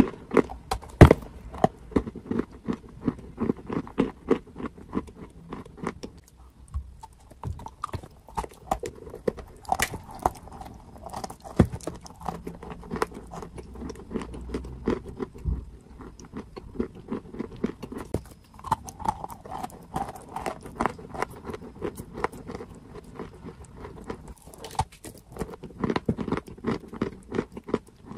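Close-miked chewing and crunching of a chunk of dried clay: dense, irregular crackles and crumbly crunches with a few brief pauses.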